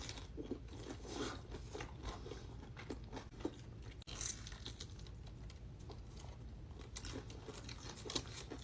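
Close-up eating sounds: a person biting and chewing food, with scattered small crunches and wet mouth clicks.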